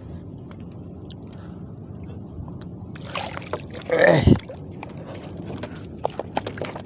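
Steady background noise of a small boat on the sea. About four seconds in there is a short, louder sound that falls in pitch, and near the end a few sharp knocks or clicks.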